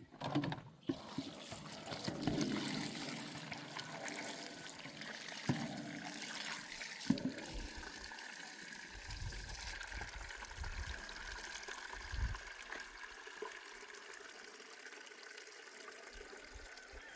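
Water trickling steadily, with a couple of brief knocks a third of the way in.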